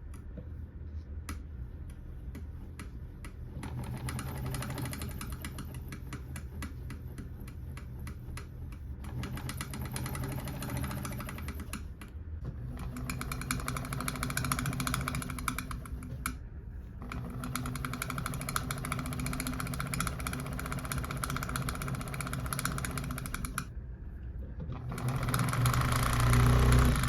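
Willcox & Gibbs chain-stitch sewing machine running steadily with a fast, even stitching rattle as it sews a folded fabric strip over a twine cord with its corder foot. It stops briefly three times, and the last run near the end is the loudest.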